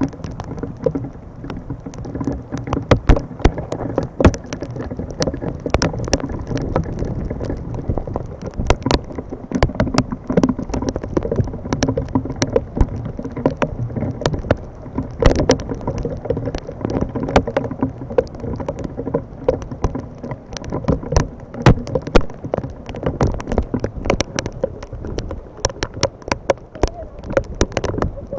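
Heavy rain falling steadily, with many irregular sharp ticks of drops striking close by.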